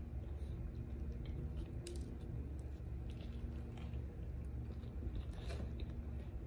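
A person biting into a crispy fried chicken sandwich and chewing it, with faint scattered crunches, over a steady low hum.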